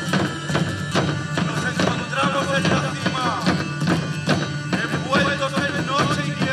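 Live folk music: a band playing a steady drum beat under a melody line, with no singing.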